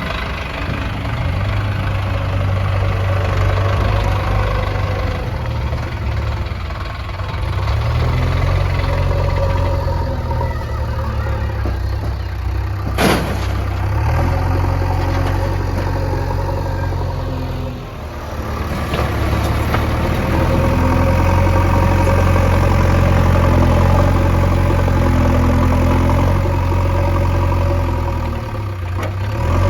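Diesel engines of a backhoe loader and tractors running steadily, their note swelling and easing as the machines work. There is one sharp click about halfway through.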